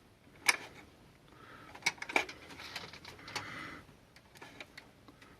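A blade working in the seam of a plastic garden-light housing, with a few sharp clicks and stretches of scraping.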